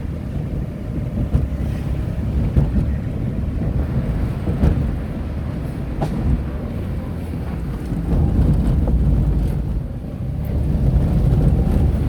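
Tata Nano driving, heard from inside the cabin with the windows down: a steady low rumble of engine and road noise with wind buffeting the microphone, swelling twice in the second half, and a few short knocks.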